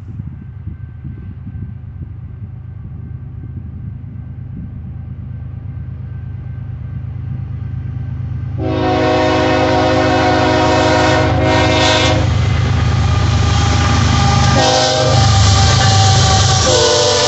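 An approaching BNSF freight train: the diesel locomotives' low rumble grows steadily louder, then the air horn sounds in several blasts, long ones and a short one, from about halfway through, over the loud rush of the train going by.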